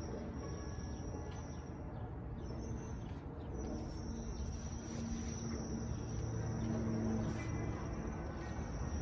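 Steady high-pitched insect trill that breaks off briefly twice, over a low rumble that grows louder in the second half.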